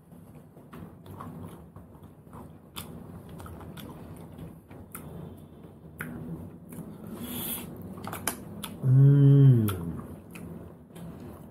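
A person chewing cooked sea snails that he picks from their shells with a toothpick, with scattered small clicks and wet mouth sounds. About nine seconds in comes a short, loud hum from his voice that dips in pitch at the end.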